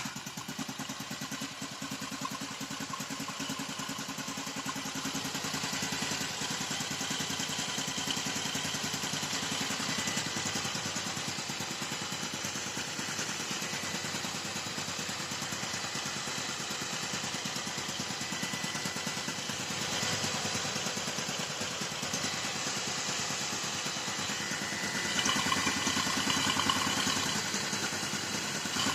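Yamaha LC135's freshly overhauled single-cylinder four-stroke engine idling steadily just after starting, running with its air filter removed. It picks up a little, louder for a couple of seconds, near the end.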